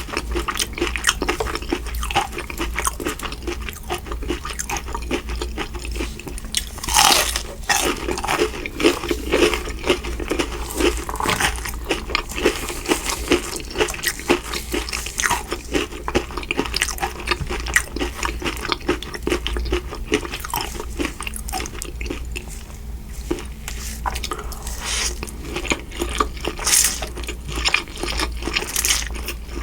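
Close-miked chewing and biting of Mi Goreng noodles and fried shrimp: a dense, continuous run of wet mouth clicks, with a louder bite about seven seconds in.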